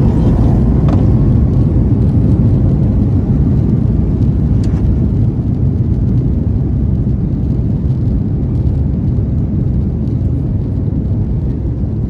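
Steady low rumble inside the cabin of a Boeing 737 MAX 9, from its CFM LEAP-1B turbofan engines and the airflow over the fuselage.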